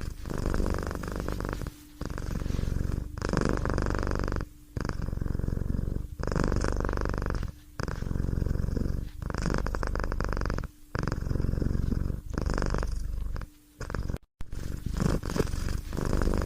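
Domestic cat purring, in regular pulses of about a second and a half, with brief breaks between breaths.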